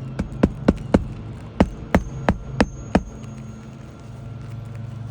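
Hammer driving roofing nails into a shingle tab: nine sharp strikes in two runs, four quick ones then five slightly slower, one leaving a brief metallic ring. A steady low hum runs underneath.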